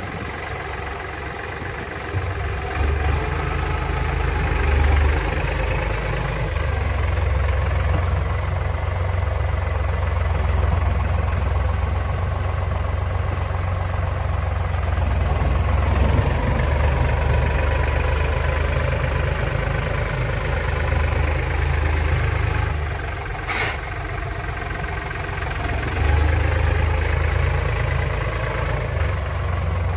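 Kioti DK65 tractor's diesel engine running, its low drone swelling and easing every few seconds as the load changes, with one sharp click about three-quarters of the way through.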